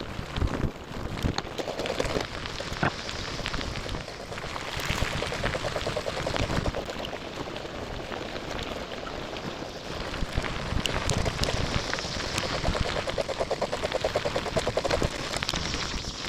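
Steady crunching and rattling of travel along a gravel rail-bed trail, thick with small clicks, with wind buffeting the microphone.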